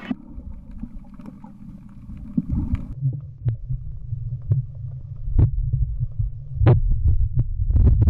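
Muffled low rumble of a camera recording underwater while snorkeling, growing louder about three seconds in, with scattered sharp clicks and pops.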